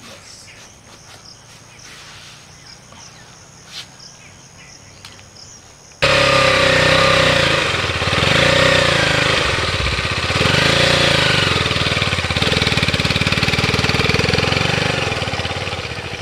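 Quiet outdoor background with a few clicks, then about six seconds in a motorcycle engine cuts in loudly, running and revving up and down as the bike is ridden through soft sand.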